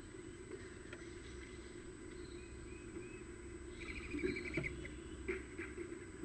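Songbirds chirping faintly, with a quick trill of notes about four seconds in, and a few sharp knocks between about four and five and a half seconds in, over a steady low hum.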